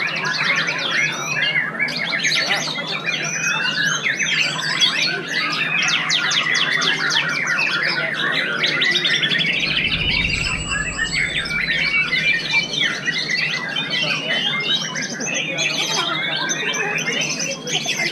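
White-rumped shama (murai batu) singing non-stop: a dense, varied song of quick sweeping whistles, harsh notes and a fast trill, tangled with other songbirds singing at the same time.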